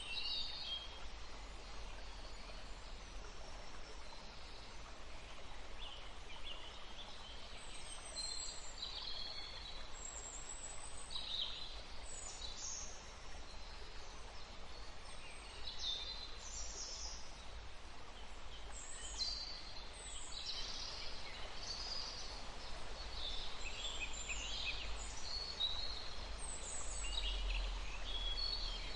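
Woodland stream flowing steadily, with small songbirds chirping and whistling on and off throughout in short, high calls.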